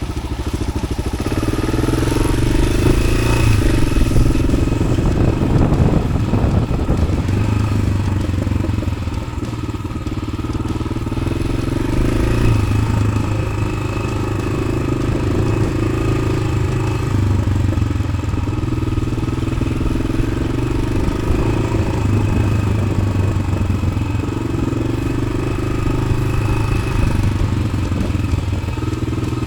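Yamaha XT600's single-cylinder four-stroke engine running through an Arrow aftermarket exhaust, its speed rising and falling gently every few seconds as the bike is ridden slowly off-road. It is louder and rougher for a few seconds near the start.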